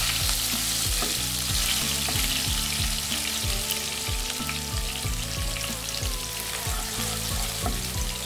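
Chopped onion and green onion whites frying in hot oil in a nonstick wok, a steady sizzle, stirred with a wooden spatula at the start. Background music with a steady beat plays underneath.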